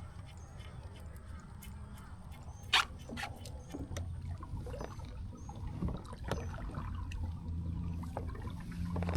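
Water trickling and lapping at a kayak hull under a steady low rumble, with scattered knocks and clicks of gear on the boat, one sharp knock about three seconds in. A small bird chirps briefly again and again.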